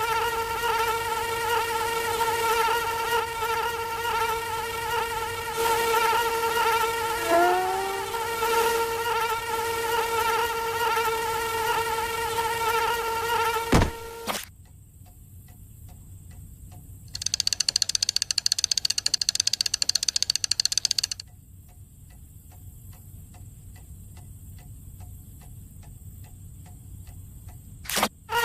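Cartoon sound effects of a buzzing insect: a steady, pitched wing drone, with a few short gliding squeaks partway through. A sharp knock about halfway through cuts the drone off. A quieter, soft regular ticking under a thin high whine follows, with a louder buzzing stretch in the middle of it.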